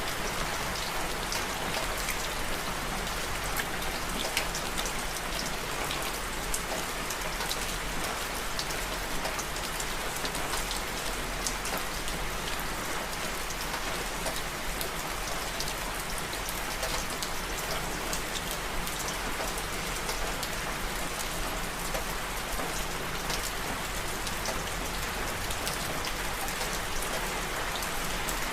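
Steady rain falling: an even hiss with many small drop ticks spattering through it.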